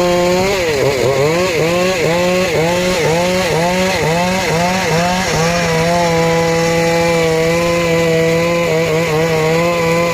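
Small petrol engine of a wood saw running at high speed. For the first few seconds its pitch dips sharply and recovers about twice a second, then it holds a steady high pitch.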